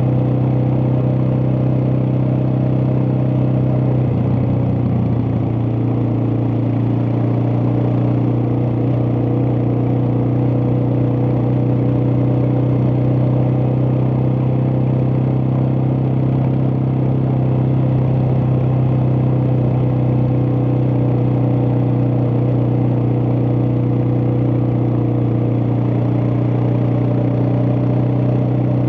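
Suzuki DR650's single-cylinder engine running steadily under way. The engine note dips briefly about four seconds in, then settles back to a steady note.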